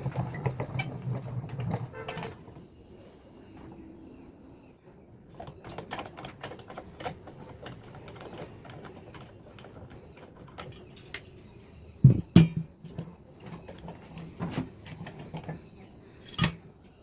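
Mixer grinder jar being handled: a low hum that stops after about two seconds, then scattered clicks and scrapes and two loud knocks, one about twelve seconds in and one near the end.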